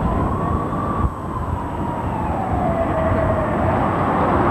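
Loud, steady engine rumble with a faint whine that slowly falls in pitch and then rises again.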